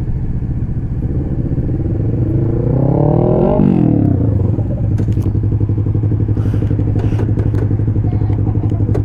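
Motorcycle engine under acceleration, its pitch climbing for about two and a half seconds, then dropping sharply about a third of the way in as the throttle comes off or a gear changes, and running steadily after that.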